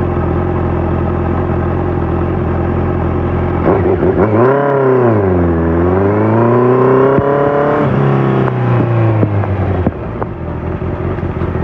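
Honda CBR650F inline-four running through a full Akrapovic exhaust with the dB killer fitted: it runs steadily for about four seconds, then the revs climb quickly, dip, climb again and hold, and fall back to a low steady run near the end.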